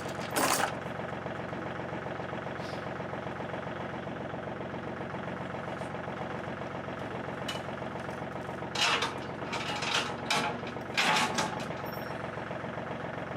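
An engine idling steadily, with several short knocks or clatters, one near the start and a cluster about two-thirds of the way through.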